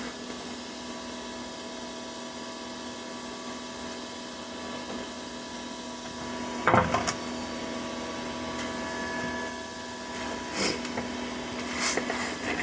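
Steady machine hum made of several constant tones, with a brief louder sound about two-thirds of the way through and a few light knocks near the end.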